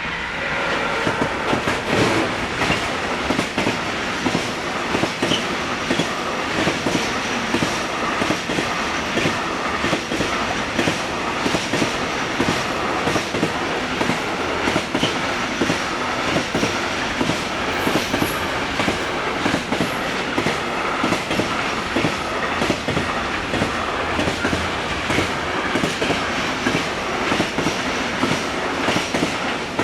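Freight train passing close by at speed, its wagon wheels clattering over the rail joints in a fast, steady run of clicks.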